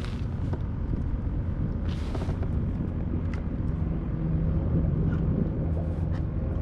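A steady low rumble, with scattered small clicks and a short hissing rustle about two seconds in, while a hook is worked out of a freshly caught sheepshead.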